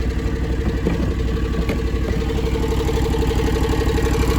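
John Deere X720 garden tractor's liquid-cooled two-cylinder Kawasaki engine running steadily with an even, rapid pulse.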